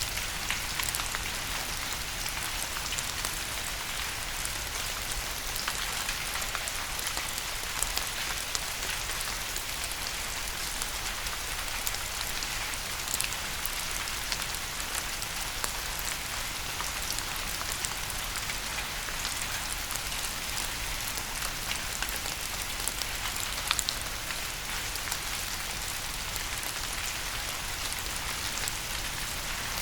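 Steady rain falling, a dense hiss with many individual drops tapping distinctly on a surface.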